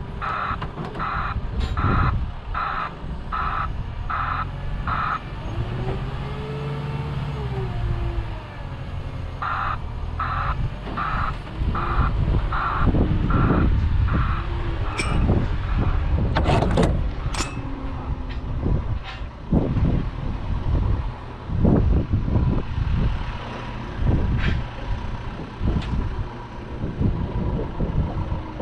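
Lorry's reversing alarm beeping about one and a half times a second, in two runs separated by a few seconds' pause, over a diesel engine running. After the second run there is a series of loud knocks and clunks.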